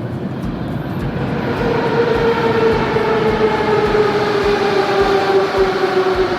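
Moscow Metro train running, its electric traction motors giving a whine that starts about a second and a half in and slowly falls in pitch over a steady rumble.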